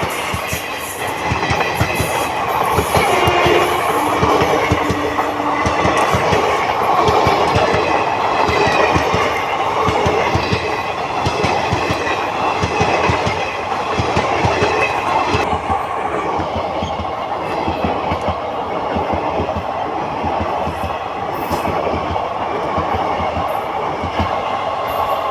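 Passing train, its wheels clattering over the rail joints in a steady, rapid rhythm.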